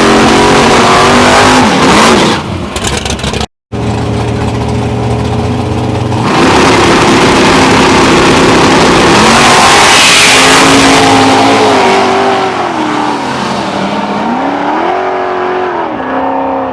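Drag race car engines running loud and revving, their pitch rising and falling several times. The sound cuts out briefly about three and a half seconds in.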